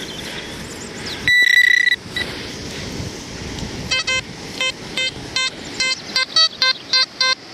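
XP Deus metal detector sounding its target tones: a loud steady high tone lasting under a second early on, then from about four seconds a run of short pitched beeps, about three a second, as the coil is swept back and forth over a buried metal target.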